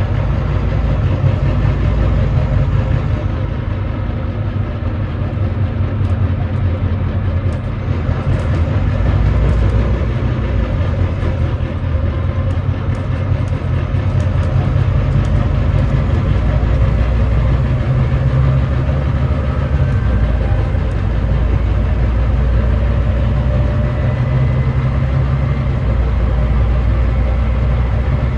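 Volvo D9B 9.3-litre diesel engine of a Volvo B9TL double-decker bus running under way, a steady low drone that swells and eases gently with road noise over it. The engine is one the recordist describes as misfiring and thrashing.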